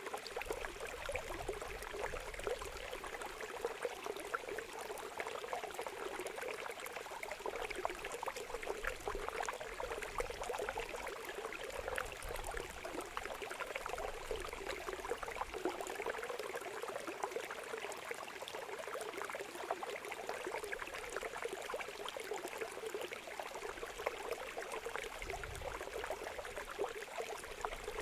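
Water trickling and gurgling steadily, like a small stream, with a dense patter of tiny splashes.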